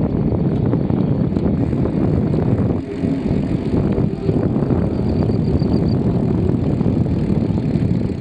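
Wind buffeting the microphone with rumble from a bicycle being ridden: a loud, rough, steady low noise.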